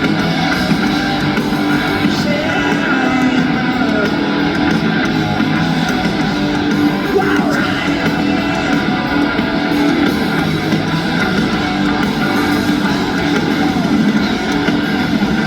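Live rock band playing loud distorted electric guitars with bass and drums, recorded from the crowd, heard as a steady, dense wall of sound.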